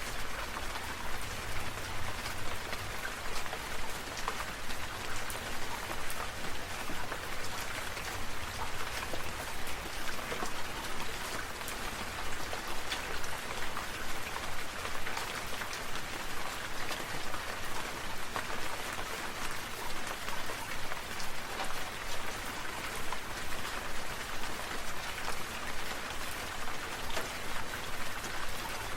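Water drops pattering steadily like rain, with many small separate drop ticks over a constant hiss of spray.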